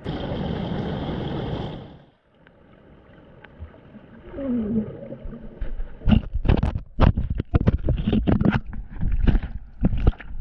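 Water sounds picked up by a camera in the water: a gurgling rush of water for about two seconds, then a brief lull, then a run of irregular thumps and splashes as the camera is moved through the water.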